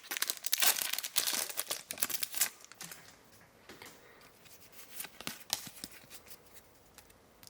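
Foil booster-pack wrapper being torn open and crinkled for about two and a half seconds, then fainter, scattered rustles and light clicks as the cards are handled.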